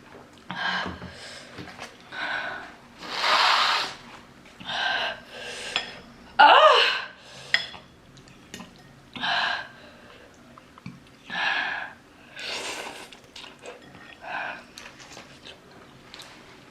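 A person breathing hard and noisily through the mouth, about ten sharp breaths, as if to cool the burning of extremely spicy noodles. About six and a half seconds in comes a louder breath with a short pained groan. Faint clicks of utensils on a dish come between the breaths.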